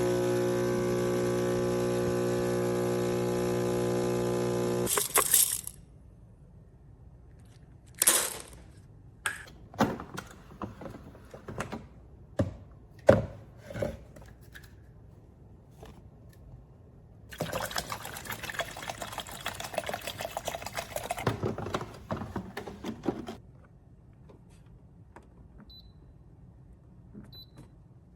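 Pitched background music cuts off about five seconds in. Scattered sharp clicks and knocks follow, then about six seconds of liquid pouring.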